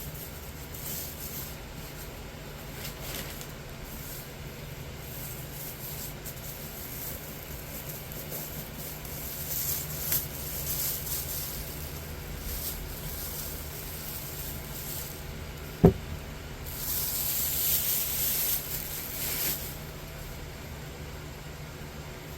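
Rustling and handling noises as furnace kit parts are unpacked, in bursts of crinkling, with a single sharp knock about two-thirds of the way through, over a steady low hum.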